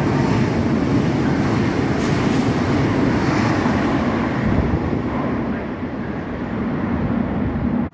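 Trenitalia regional electric multiple unit passing through the station at speed: a loud, steady rushing noise that eases off about five seconds in as the train runs on into the tunnel.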